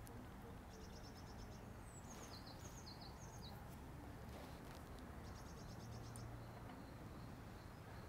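Quiet woodland ambience with faint, high bird calls: a quick trill about a second in, a few short falling chirps around two to three seconds, and another trill around six seconds.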